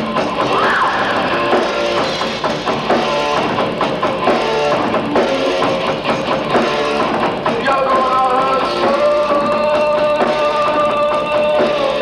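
Rock band playing live, with a drum kit and guitars; about two-thirds of the way through, long held notes ring over the drums.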